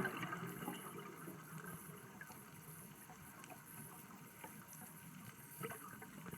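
Faint underwater ambience: a low steady hiss with scattered small clicks.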